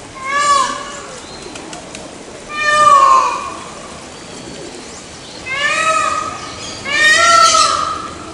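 Peafowl calling: four loud, high, nasal calls with a slight rise and fall in pitch, each under a second long, the last two coming close together.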